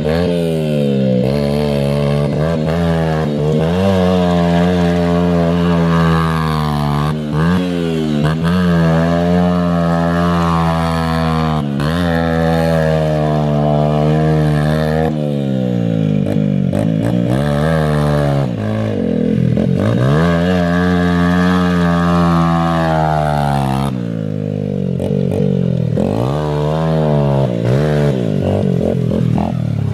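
Mint 80 dirt bike engine running under throttle, its pitch rising and falling as it revs. In the second half it drops off and picks up again several times.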